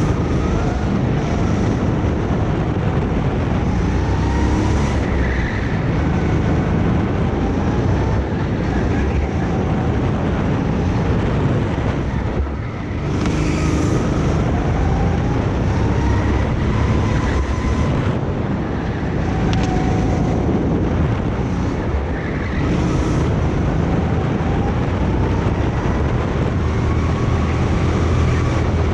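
Go-kart engine running at speed, heard onboard. Its pitch climbs and falls again and again as the kart accelerates down the straights and backs off for corners, with a short lift about twelve seconds in.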